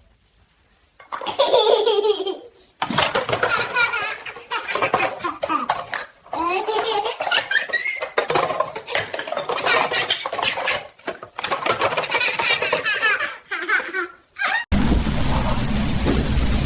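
A baby laughing in bursts of belly laughs and giggles with short breaks between them. Near the end the laughter stops suddenly and a steady low rumble takes over.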